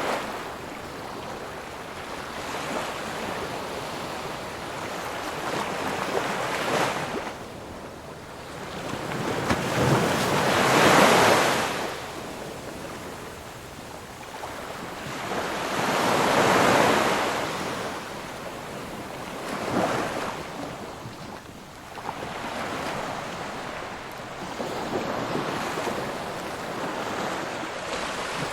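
Ocean waves breaking and washing on the shore, the surf swelling to loud peaks about every five seconds in the middle and easing between them, with some wind noise.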